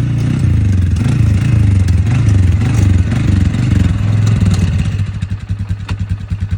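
Four-wheeler (ATV) engine running while being ridden, its pitch rising and falling with the throttle. About four and a half seconds in it eases off to a slower, pulsing idle.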